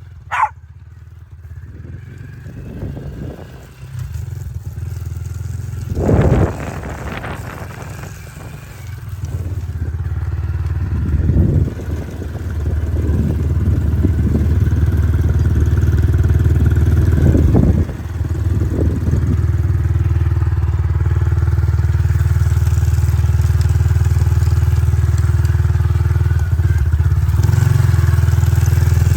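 Motorbike engine running, revved up in several short surges over the first twenty seconds, then running steadily and louder.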